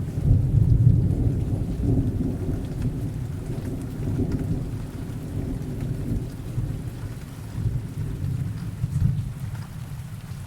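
Thunder rumbling over steady rain. The rumble is loudest about a second in, swells again twice and dies away toward the end, leaving the rain.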